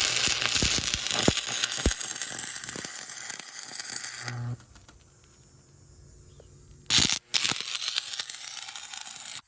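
Arc welding a steel tailgate hinge: a steady crackling and spitting arc for about four and a half seconds, a pause of about two and a half seconds, then a second weld run until the end.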